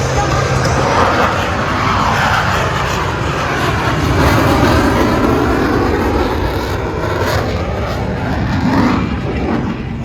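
Blue Angels F/A-18 Super Hornet jets taking off and passing low, a loud, steady jet roar whose pitch sweeps up and down as they go by. It eases off slightly near the end.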